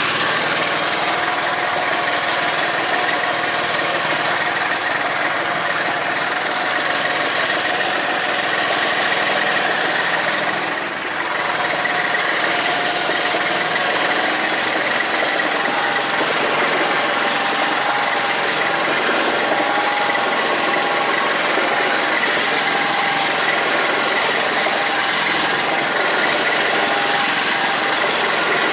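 Engine of a karakat swamp buggy running steadily as it drives, with a steady high whine over the engine noise. The sound dips briefly about eleven seconds in, then picks up again.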